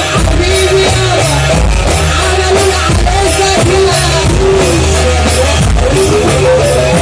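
Loud live band music: a wavering keyboard melody repeating short phrases over heavy pulsing bass and drums.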